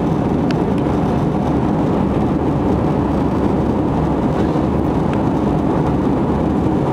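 Airliner cabin noise: a steady, loud rumble of jet engines and airflow heard from inside the passenger cabin during the climb after takeoff.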